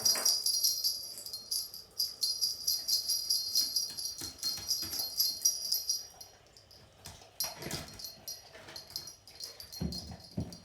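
Small bell in a kitten toy jingling and rattling as it is batted about, for most of the first six seconds and again near the end. Siberian kittens mew briefly once or twice.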